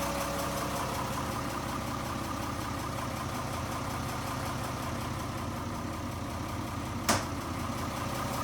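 An engine idling steadily, with one sharp click about seven seconds in.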